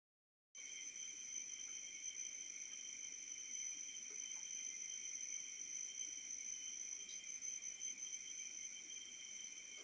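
Steady, unbroken chorus of crickets or other night insects, a constant high-pitched chirring in several layered pitches, cutting in abruptly about half a second in.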